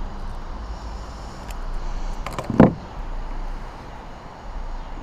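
A few faint clicks, then a single loud thump about two and a half seconds in, over a steady low rumble.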